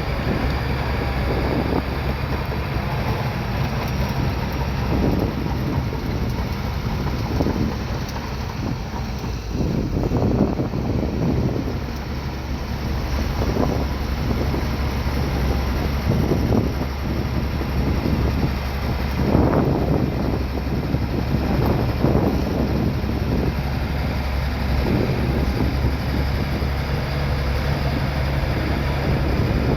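Bulldozer's diesel engine running steadily, with irregular gusts of wind noise on the microphone.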